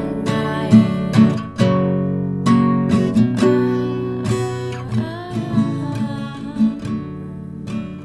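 Acoustic guitar playing the song's instrumental outro, plucked and strummed chords that slowly fade out.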